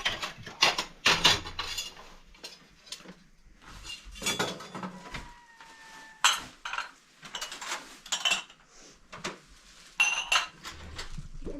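Spoons and dishes clinking and scraping in an irregular run, with one clink ringing on briefly about five seconds in.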